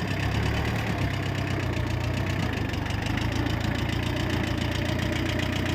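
Small tractor engine idling steadily, with a fast, even beat.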